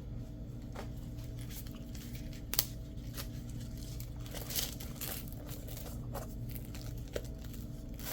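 Hands handling sticky-backed Velcro and its backing: scattered crinkles, a little tearing and a few sharp clicks, the loudest about two and a half seconds in, over a steady low hum.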